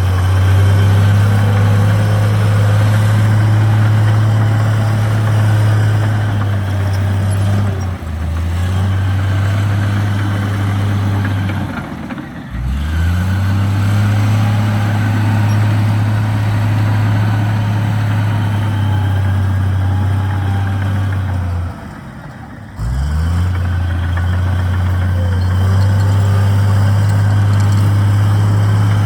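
Heavy construction machine's diesel engine running steadily with a deep hum. Twice, near the middle and about three quarters through, the engine note drops sharply and climbs back up, with a briefer dip at about eight seconds.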